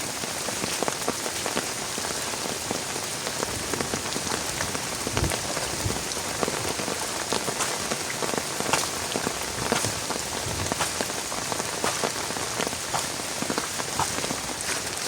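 Heavy rain falling steadily, with many individual drops pattering sharply close to the microphone.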